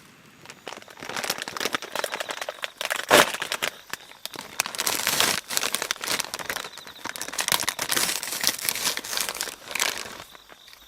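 Dense crinkling and rustling handling noise, with one louder crunch about three seconds in. It stops about ten seconds in.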